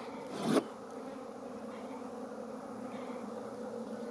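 Honeybees buzzing steadily around a frame from an opened hive, a dense even hum. About half a second in comes a short, louder noise.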